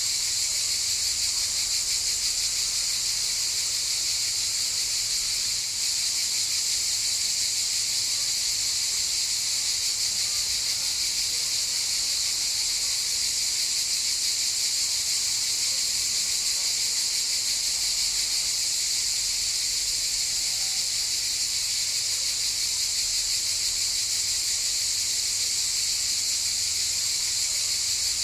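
A chorus of cicadas buzzing, a steady, dense, high-pitched drone that dips briefly about six seconds in.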